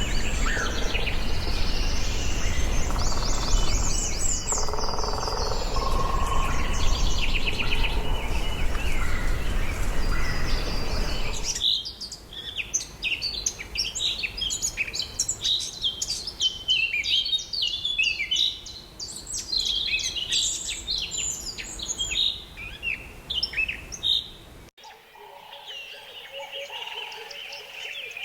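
Wild birds chirping and calling: many short, quick chirps over a steady noisy background with a low rumble. About eleven seconds in, the background suddenly drops away, leaving a dense run of rapid chirps, and near the end the sound changes abruptly again to quieter, steadier calls.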